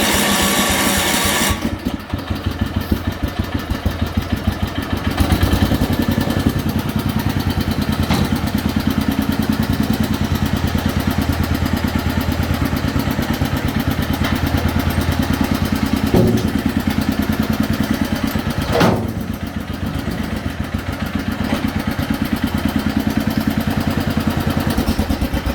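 Jacobsen Chief 1450 garden tractor's engine started and running with a fast, even beat, its muffler downturn rusted off. It is cranked for about a second and a half before it catches, then runs up louder around five seconds in.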